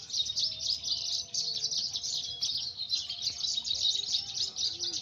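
Javan bush lark (branjangan) singing a continuous, rapid run of high chirps and trills with no pauses.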